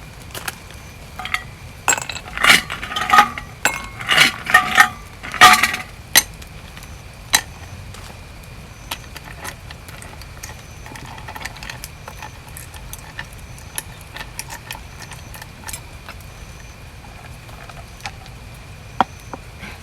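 Small hard items, glassware among them, clinking and knocking together as they are handled. There is a quick run of clinks between about two and six seconds in, then scattered light taps.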